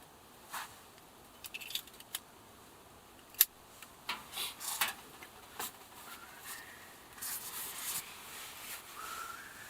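Scattered small handling noises: sharp clicks, scrapes and rustles of objects being moved about, with one louder click about three and a half seconds in and a short rising squeak near the end.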